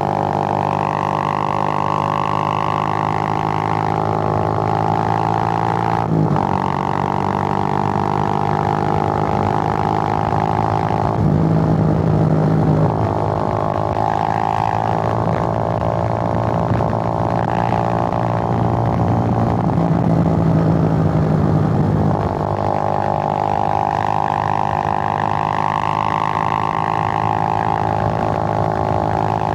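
Suzuki GN125's single-cylinder four-stroke engine running on the move, a steady drone whose pitch shifts as the revs change. There is a brief break about six seconds in, like a gear change, and it grows louder in two spells, around a third and about two thirds of the way through.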